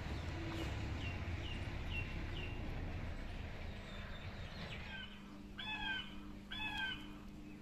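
A small bird chirps with short falling notes about twice a second, then two short, harsh calls come about a second apart near the end, over a low steady hum.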